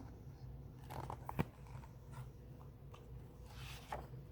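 Picture-book pages being handled and turned: a few soft clicks about a second in, then a paper rustle near the end.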